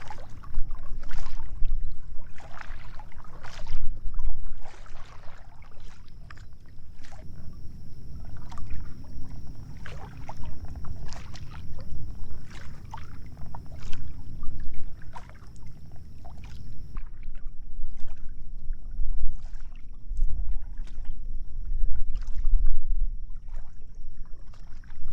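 Water splashing and sloshing around a kayak, in irregular short splashes, over a steady low rumble of wind on the microphone.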